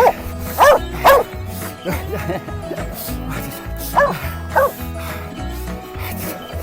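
A dog barking in play, five loud barks: three in quick succession at the start and two more about four seconds in. Background music with a steady beat plays underneath.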